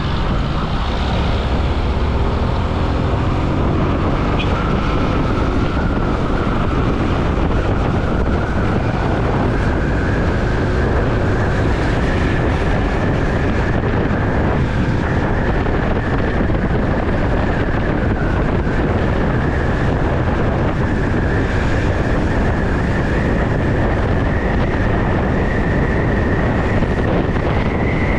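Onboard sound of a Bajaj Pulsar NS200 motorcycle riding through city traffic: the engine runs steadily under way, with wind rushing over the microphone and road noise. A high whine rises slowly in pitch as the ride goes on.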